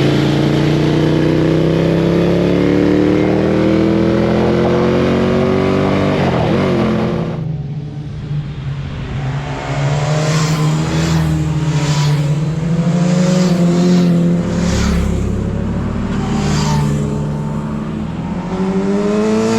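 Motorcycle engine at high revs, its pitch climbing steadily for about seven seconds under hard acceleration. After a sudden change, the engine note rises and falls, with several short rushes of noise.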